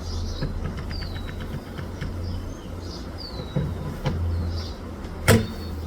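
A sharp knock about five seconds in, over a steady low rumble, with a quick run of light clicks near the start and small birds chirping now and then.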